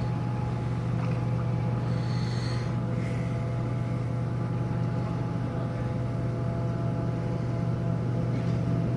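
Cruise ship's machinery running during docking: a steady low drone with a few constant higher tones above it.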